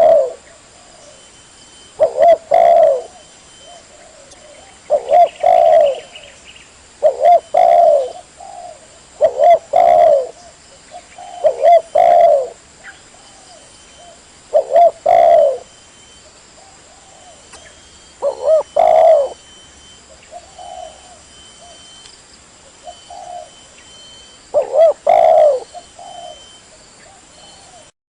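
Spotted dove (tekukur) cooing: loud phrases of several coos repeated every two to three seconds, with a longer pause and a few faint notes in the last third.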